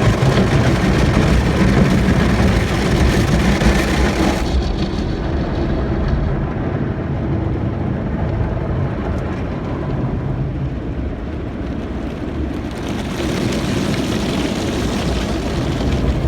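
Automatic tunnel car wash heard from inside the car: water spray and spinning brushes washing over the body. The hiss drops away about four seconds in, leaving a lower rumble for several seconds, then returns near the end.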